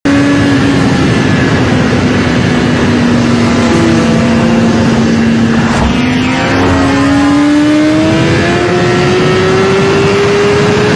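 Superbike engine running hard at speed over a loud rush of wind noise. The engine note dips slightly, then climbs steadily through the second half as the bike accelerates.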